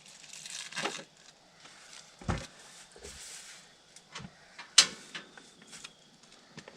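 Handling sounds of camp cooking gear being set up: a rustle in the first second, a dull thump a little past two seconds in, and a sharp click just before five seconds, with a few lighter ticks and knocks between.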